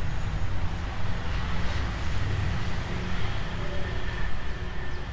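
Street ambience: a steady rumble and hiss of nearby road traffic, with wind buffeting the microphone.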